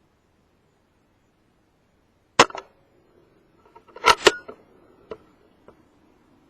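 Theoben Rapid 7 PCP air rifle firing once, a single sharp crack about a third of the way in. About two seconds later comes a quick run of clicks and knocks, two of them sharp, then a few faint ticks.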